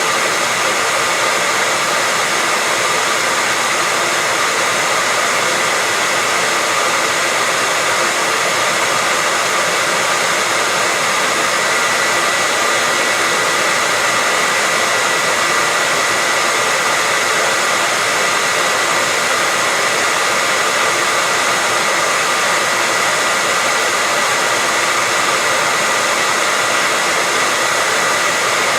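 Hair dryer running steadily at a constant speed: an even rush of air with a steady high whine from the fan motor.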